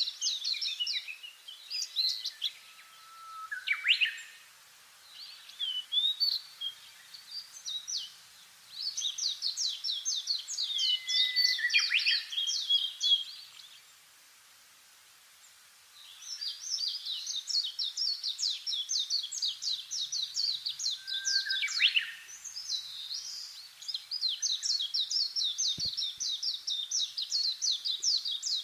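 Songbird singing: long runs of rapid, high chattering notes, each run lasting several seconds, with a few falling slurs mixed in and a brief pause about halfway through.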